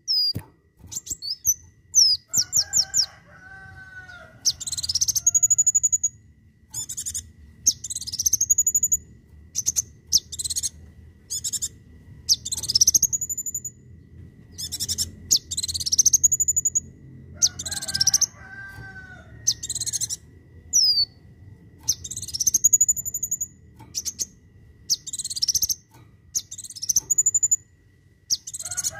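Sunbird (kolibri wulung) calling: sharp, very high upslurred notes in quick repeated series, the 'tembakan' (shots) that keepers play as a tutor song for competition birds. A lower warbled phrase comes in twice, early and again about two-thirds of the way through.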